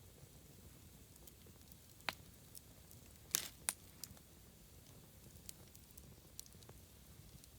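Wood campfire crackling: scattered sharp pops from the burning wood, the loudest a quick cluster a little past three seconds in, over a low steady rumble of the fire.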